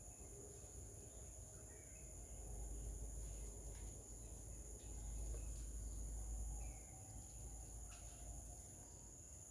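Insects trilling steadily in two constant high tones, with a few faint short bird chirps. A low rumble swells twice, about two seconds in and again around five seconds in.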